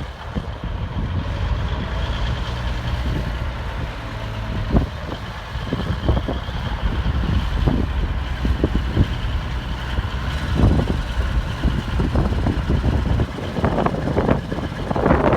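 1971 Freightliner water truck's diesel engine idling steadily, with scattered thumps that come more often near the end.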